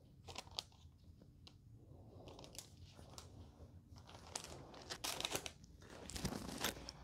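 Quiet rustling and crinkling of packaging as coasters are handled, with a few light taps near the start and denser rustling in the second half.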